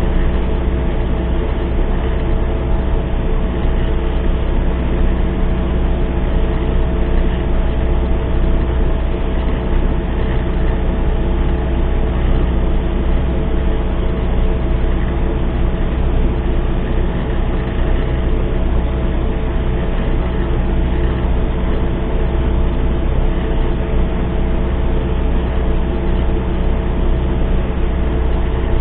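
MTZ-892 tractor's four-cylinder diesel engine running steadily at an even speed, a strong low rumble.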